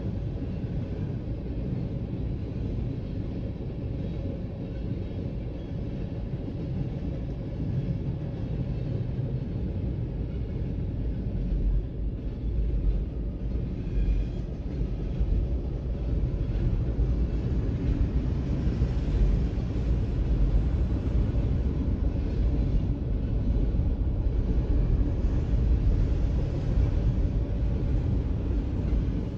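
Freight train of boxcars, tank cars and covered hoppers rolling past, a steady low rumble of wheels on rail, heard from inside a car. It grows a little louder in the second half.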